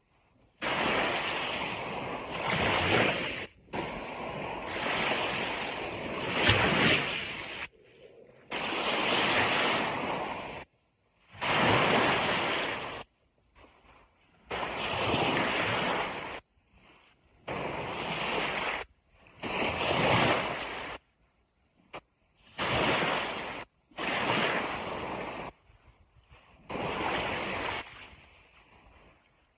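Ocean waves breaking and washing on a beach, coming in surges of about one to three seconds each that cut off abruptly into near silence between them.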